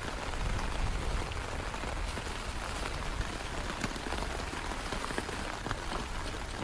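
Steady heavy rain: an even hiss with separate drops heard as small scattered ticks.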